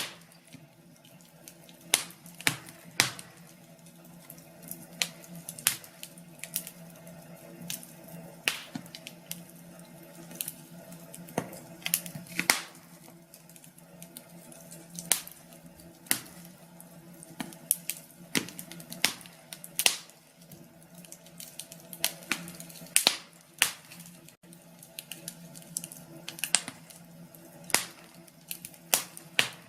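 Wood fire crackling in a fireplace: irregular sharp pops and snaps, a few of them loud, over a faint steady low hum.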